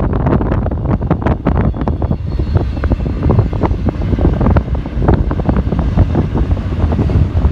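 Strong wind buffeting the microphone in irregular gusts, over the steady rumble of a fast freight train going by.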